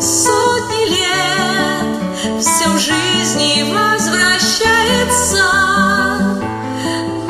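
A voice singing with vibrato over acoustic guitar accompaniment.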